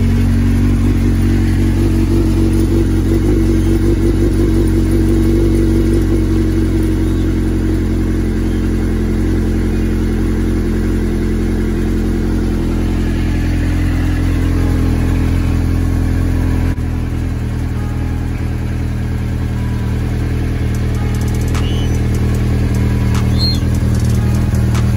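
Suzuki GSX-R600's inline-four engine idling steadily as it warms up after a cold start.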